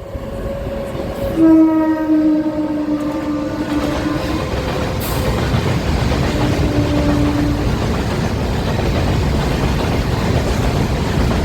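Freight train locomotive sounding its horn in one long blast starting about a second and a half in, then a shorter blast a few seconds later. The train's rumble grows louder and stays steady as it runs past.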